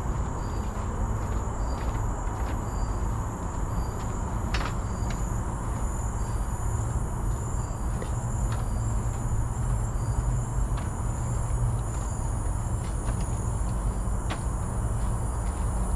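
Insects buzzing steadily in a high, thin drone, with a short high chirp repeating about every two-thirds of a second, over a steady low rumble.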